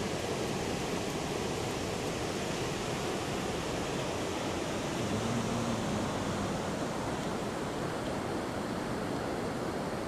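Heavy surf breaking on a beach: big waves from a swell running ahead of an approaching typhoon, heard as a steady, unbroken wash of noise.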